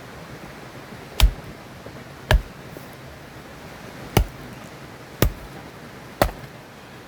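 Wood being chopped with a blade: five sharp strikes about a second apart, over the steady rush of a river.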